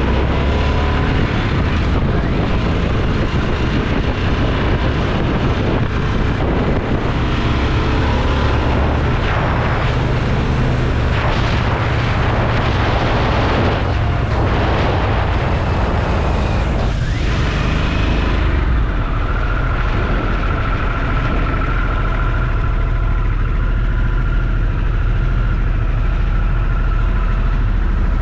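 Motorcycle engine running on the move with wind rushing over the microphone, the rush heaviest in the middle; about two-thirds of the way through the wind drops away and the engine settles to a steadier, lower note.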